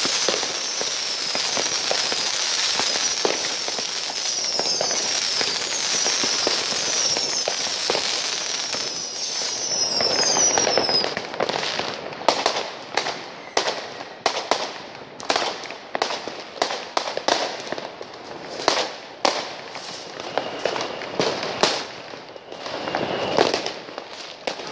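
New Year's Eve fireworks. For the first ten seconds or so there is a dense crackling hiss with a string of short falling whistles. From about eleven seconds on comes a run of separate sharp bangs, one or two a second.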